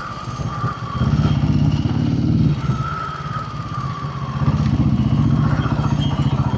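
Royal Enfield Himalayan 450's single-cylinder engine running through an aftermarket barrel exhaust while riding. It pulls louder twice, about a second in and again about four and a half seconds in, easing off in between.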